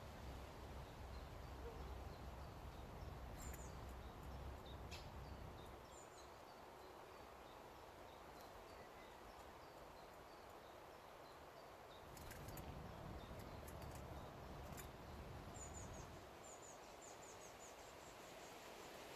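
Faint outdoor background with a low rumble of wind on the microphone, scattered short, high bird chirps, a quick run of them near the end, and a few sharp clicks.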